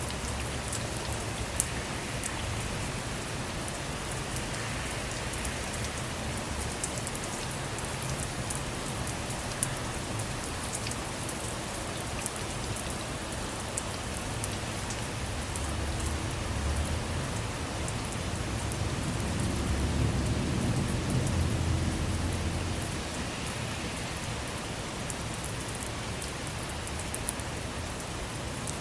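Steady rain, with many individual drops ticking sharply on the car, and a low rumble of thunder that swells and fades about two-thirds of the way through.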